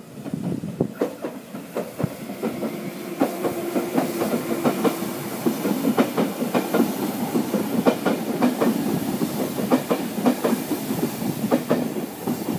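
Locomotive-hauled passenger train passing close by, its wheels clattering over the rail joints in a dense run of clicks. A steady hum sounds for about three seconds starting some two seconds in.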